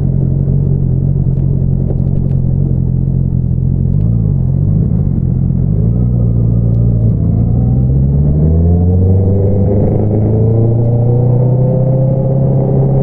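2022 Honda CBR650R's inline-four engine running through an Akrapovič single-outlet exhaust, heard loud and steady while riding. Its pitch wobbles briefly about four seconds in, then rises steadily as the revs climb and holds near the end.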